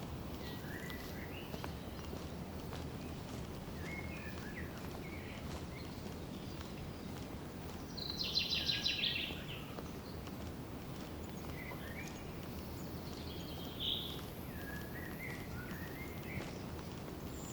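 Several small birds calling, with scattered short chirps and one louder, fast trill about eight seconds in, over a steady low background rush of the forest.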